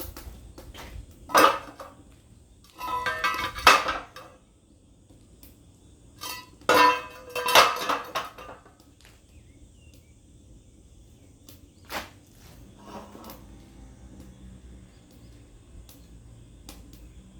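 Metal pieces clanking and rattling against each other with a ringing tone, in four irregular bursts; the loudest come about 3 to 4 and 7 to 8 seconds in, with a single knock near 12 seconds.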